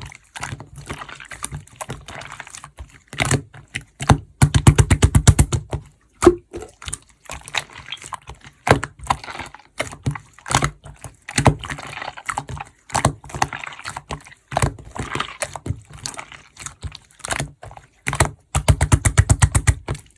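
Hands playing with slime: sticky clicks, crackles and small air pops as it is squeezed, poked and folded. Twice, about four seconds in and near the end, it breaks into a fast, even run of clicks.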